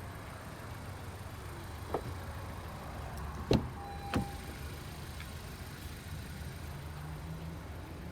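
A car's low steady running hum, with a few sharp clicks and knocks about two, three and a half and four seconds in, the one at three and a half seconds the loudest, and a brief beep-like tone about four seconds in.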